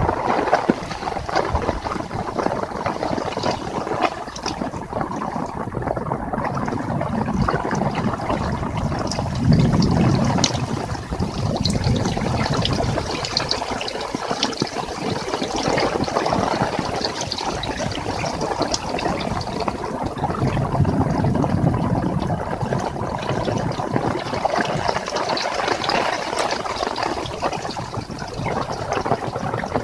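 Heavy rain falling steadily, a dense patter of drops. A low rumble swells up and fades twice, about a third of the way in and again past two-thirds.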